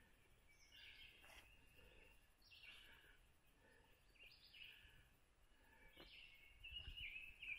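Faint songbird singing, short warbled phrases repeated every second or two over an otherwise near-silent background.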